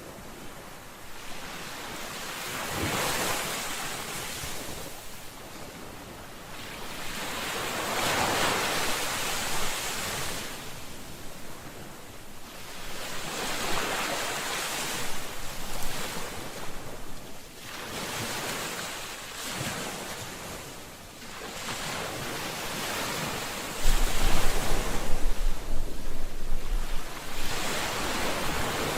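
Sea waves washing onto a shore: a steady hiss of surf that swells and fades as each wave breaks, a few seconds apart. About five seconds before the end, a low rumble of wind buffeting the microphone comes in and is the loudest part.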